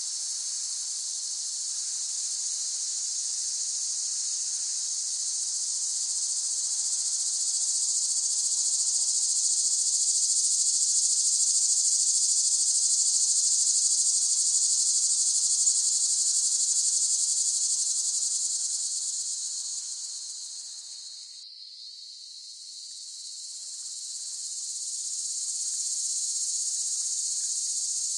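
Cicadas buzzing in a continuous high, shrill drone that swells louder through the first half, fades briefly about three quarters of the way through, then builds again.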